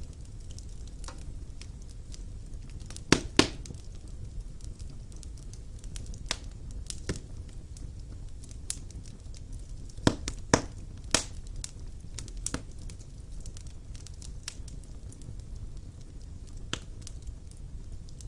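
Wood fire burning in a stone fireplace: a steady low rumble of flames with scattered sharp crackles and pops, the loudest a pair about three seconds in and a quick cluster around ten to eleven seconds.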